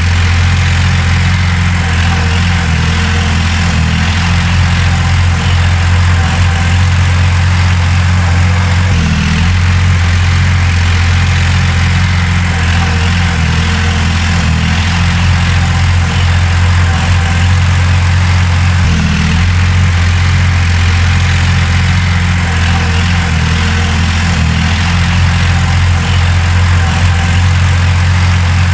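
Heavy diesel engine of earthmoving machinery running steadily, with no change in engine speed.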